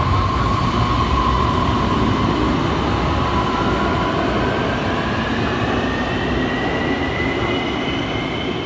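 Light-rail train running on its elevated track: a steady rumble under an electric motor whine that rises slowly in pitch as the train gathers speed.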